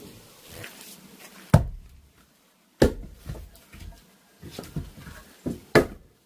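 Firewood being split with an axe: three sharp, loud chops about 1.5, 3 and 6 seconds in, each log splitting at a single blow, with lighter knocks of wood between them.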